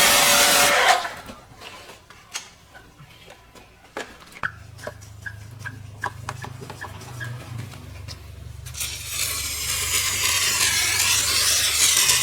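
Car-cleaning work noise: a loud scrubbing noise stops about a second in, then come a string of light clicks and taps with a low hum starting partway through. The scrubbing noise starts again about nine seconds in.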